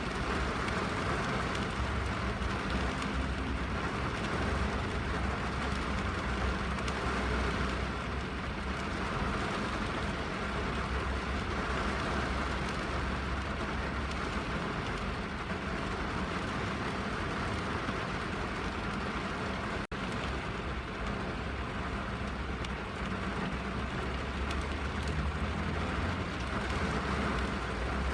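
Steady rain heard from inside a car, a dense even patter on the roof and glass over a low rumble, with a momentary dropout about twenty seconds in.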